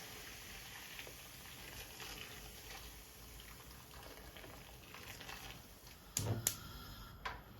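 Water bubbling in a pot at a low boil, faint and steady with small crackles. Two sharp knocks come about six seconds in, and another click comes near the end.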